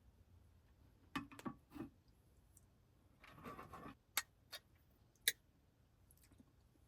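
A few light clicks and taps from small objects being handled, with a short rustle in the middle.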